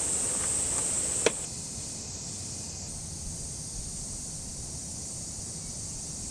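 Steady high-pitched insect chirring, with one sharp click a little over a second in.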